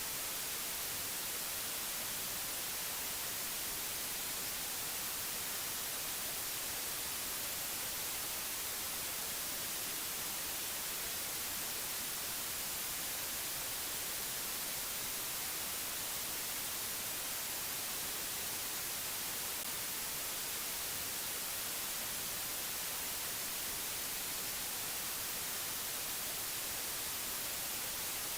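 Steady, unchanging hiss, brightest in the high frequencies, with no other sound over it.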